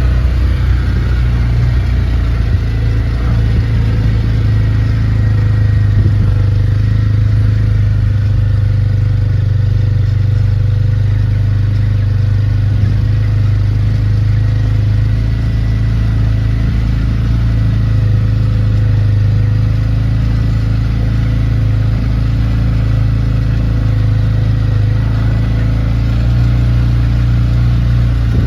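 A loud, steady low rumble with a constant pitch, engine-like, running without a break, with a faint thin tone above it.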